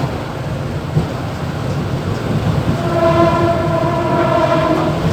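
Mumbai suburban EMU local train running, a steady rumble with a couple of track knocks near the start. About three seconds in, a train horn sounds one steady note for about two seconds.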